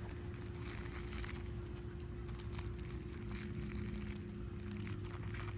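Faint scattered rustling and crinkling over a steady low hum, with a faint droning tone in the middle.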